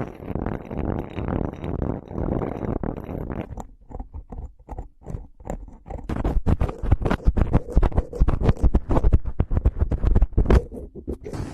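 Close-miked ASMR trigger sounds. A dense rustling scratch runs for about three and a half seconds, then gives way to separate clicks, which from about six seconds in become fast, dense tapping with a deep thud on each tap.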